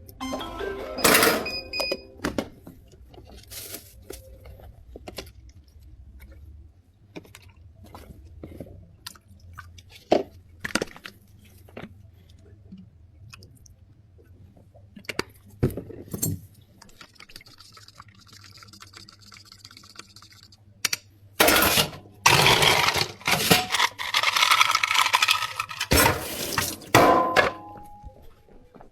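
Drink-making clatter at a bubble tea counter: scattered clinks and knocks of cups, utensils and ice, then a louder, busier stretch of clatter from about twenty seconds in that lasts some six seconds.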